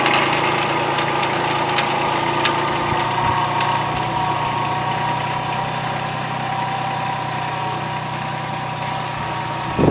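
Kubota NeoStar B2441 compact tractor's three-cylinder diesel engine running steadily, with a brief louder thump right at the end.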